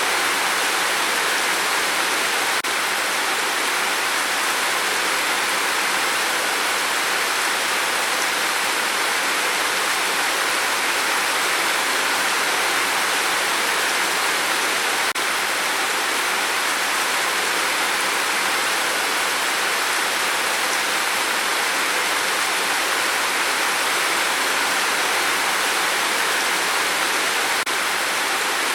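Steady rain falling on a tin roof: a dense, even hiss of many drops that neither builds nor eases.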